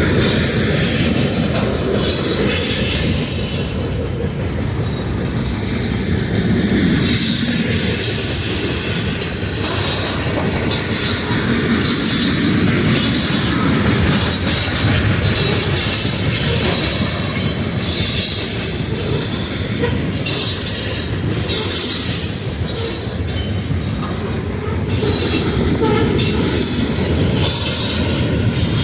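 Freight train rolling past: cars rumbling steadily over the rails, with recurring high wheel squeal.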